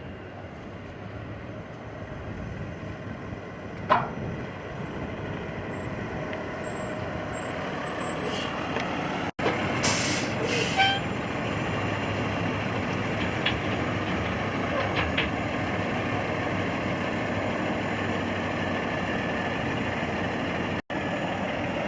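Heavy truck engine running steadily, growing louder, with a short squeal about four seconds in and a brief burst of air-brake hiss about ten seconds in.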